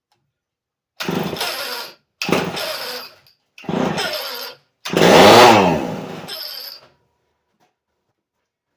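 Vintage Lombard American Lincoln two-stroke chainsaw engine firing briefly four times, each run lasting about a second before it dies, as it runs only on a little gas put in the carburettor. The fourth and loudest run revs up and falls away over about two seconds before stopping.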